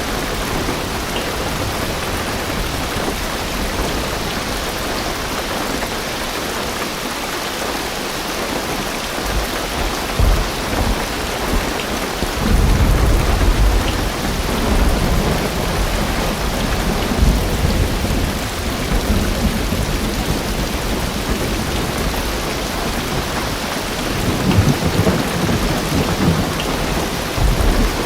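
Heavy rain drumming steadily on a car's roof and windows, heard from inside the car, with deep thunder rumbling in. The thunder swells about twelve seconds in and again near the end.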